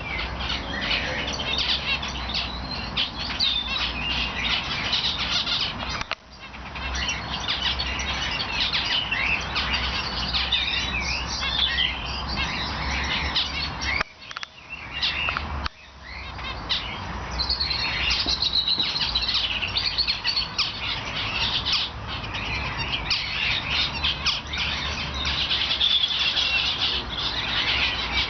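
A flock of small cage birds in an aviary chirping and calling all together, a dense chatter of high chirps and trills with the odd squawk. A low rumble runs underneath and drops out briefly a few times.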